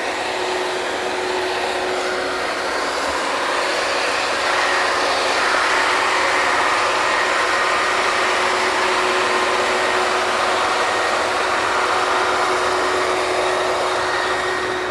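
Steady, loud noise of an oil drilling rig's machinery running while it drills, with a constant hum under a dense rushing din.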